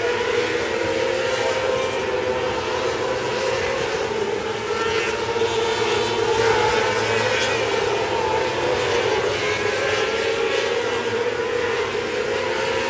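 Winged sprint car's engine running hard and steady at racing speed, with a constant rushing noise over it.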